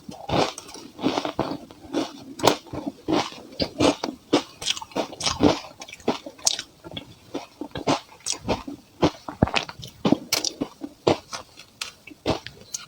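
Ice being bitten and chewed close to the microphone: sharp, irregular crunches, a few a second, as the pieces crack between the teeth.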